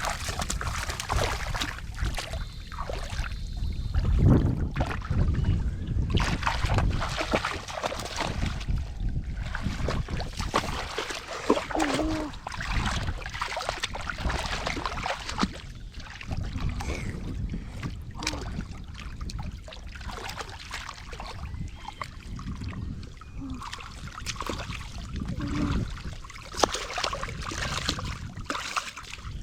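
Shallow water sloshing and splashing in irregular bursts, as hands work through it for fish.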